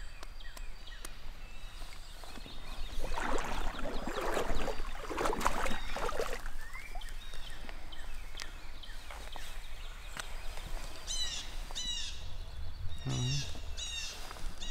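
A few seconds of loud, noisy scuffling, then a songbird calling in short runs of quick, high, downward chirps, repeated several times near the end.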